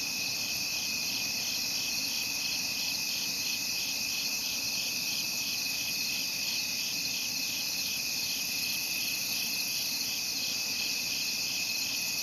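Insects chirping steadily: a continuous high-pitched trill with an even, rapid pulsing.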